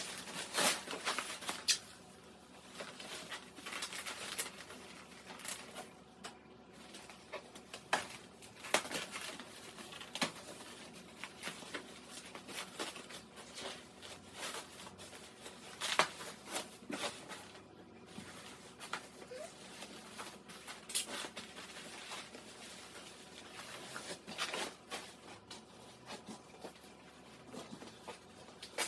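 Intermittent rustling, tapping and knocking of packaging being handled as a boxed microwave is unpacked, with sharper clicks every second or two.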